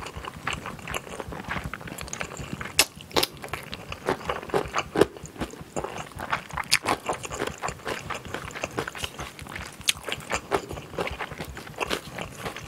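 Close-miked chewing and crunching of yellow pickled radish (danmuji) and noodles, with irregular wet mouth clicks and several sharper crunches, a few louder than the rest.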